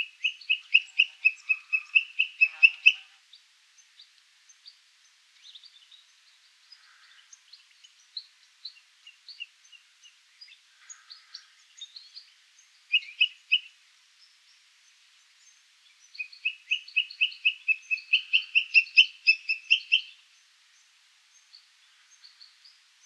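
A bird calling in fast runs of shrill, evenly repeated notes, about six a second. One run of about three seconds comes at the start, a short burst about halfway, and a longer run of about four seconds later on, with fainter scattered chirps between.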